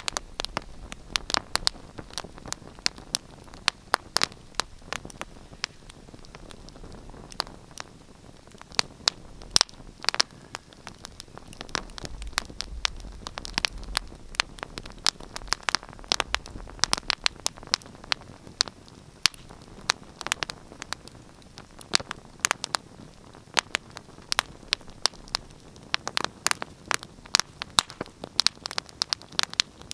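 Wood fire crackling: many sharp, irregular pops and snaps over a soft steady hiss.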